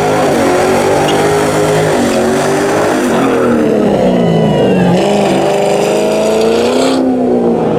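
Loud vehicle engines revving, their pitch rising and falling throughout, with more than one engine sounding at once.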